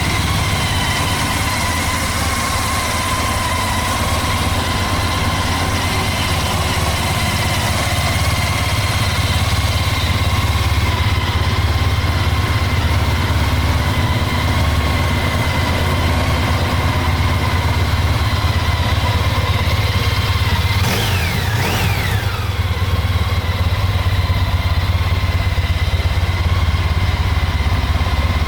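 Honda ST1300 Pan European's V4 engine idling steadily, with no revving. About three-quarters of the way through, a brief high whistle slides down and up in pitch.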